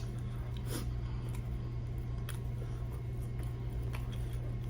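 Someone chewing a bite of crispy fried chicken, with faint, scattered crunches and mouth clicks over a steady low hum.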